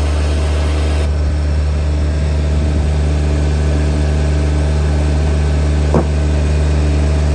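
Engine running steadily at idle, a loud, even low hum, with a single short knock about six seconds in.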